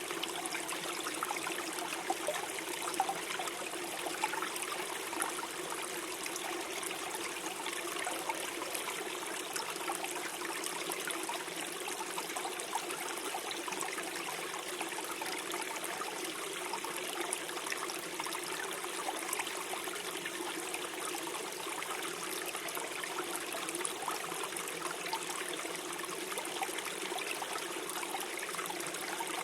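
A gentle forest stream flowing and gurgling steadily over its bed.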